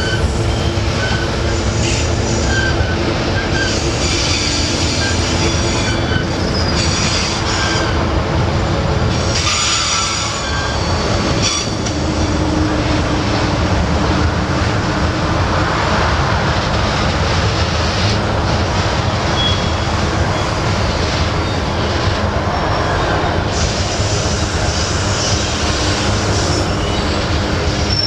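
Loaded iron-ore wagons of a long freight train rolling through a curve: a steady, loud rumble of wheels on rail, with high-pitched wheel flange squeal that comes and goes.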